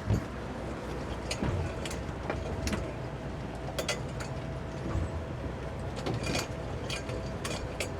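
The towboat's twin 200 hp Suzuki outboard engines running at low speed with a steady hum, along with scattered sharp clicks and knocks.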